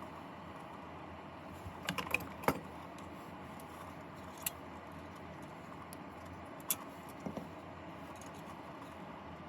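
Light clicks and taps from small parts being handled while a soap dispenser's circuit board is fitted and its wires arranged in the housing: a quick cluster about two seconds in, then a few single clicks spread through the rest, over a steady faint hiss.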